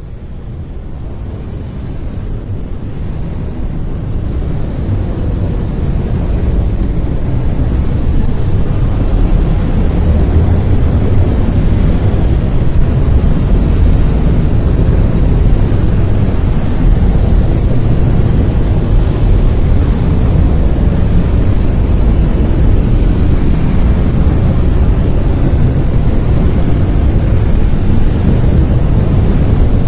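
Synthetic brown noise: a steady, deep rumbling hiss, heaviest in the bass, fading in over the first several seconds and then holding level.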